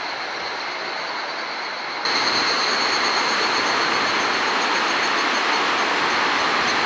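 Strong gusty wind rushing steadily, with a thin high-pitched whine running through it; it turns abruptly louder about two seconds in.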